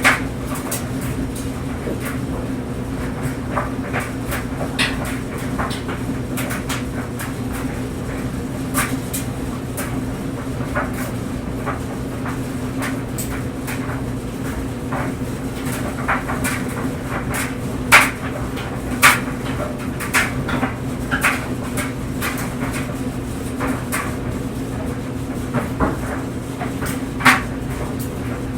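Clothes dryer running with clothes tumbling in the drum: a steady low hum under irregular knocks and clicks, with a few louder thumps in the second half.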